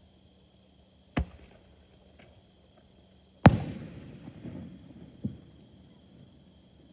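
Three aerial firework shells bursting, the middle one loudest and followed by a rumbling, crackling tail. Insects chirp steadily throughout.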